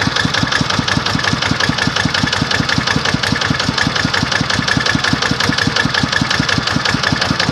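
Engine idling steadily with an even chug of about six to seven beats a second.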